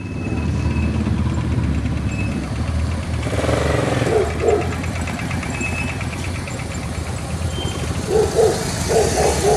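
Motorcycle engine starting and then idling steadily.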